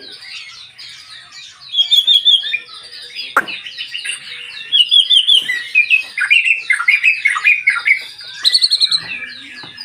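White-rumped shama singing a long, varied song of whistled phrases and rapid trills, with loud runs of fast repeated notes about two, five and eight and a half seconds in.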